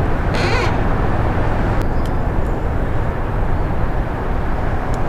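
Steady low rumble on a fishing boat, with a short hiss about half a second in.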